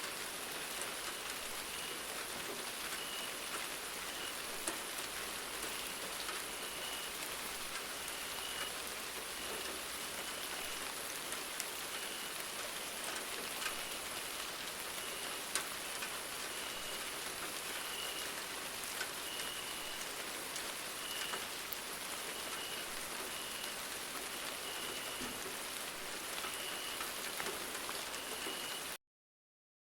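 Steady rain falling, with individual drops ticking sharply on a surface, and a faint high peep repeating about once a second behind it. The sound cuts off abruptly about a second before the end.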